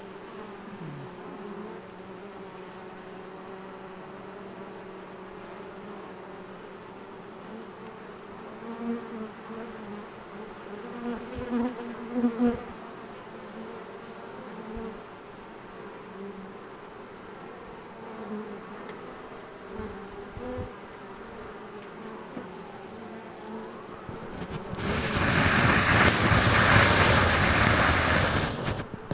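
Honeybee swarm buzzing, a steady hum of many wings with single bees flying close by and swelling louder a few times. Near the end a loud rushing noise drowns it out for about four seconds.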